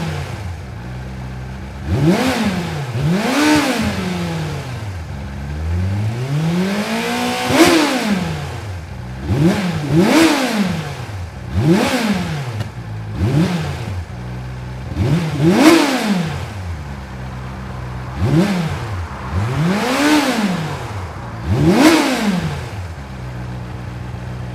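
Triumph TT600's inline four-cylinder engine revved repeatedly from idle: about a dozen quick blips, each rising and falling in pitch before dropping back to a steady idle. A slower, longer rev comes about seven seconds in.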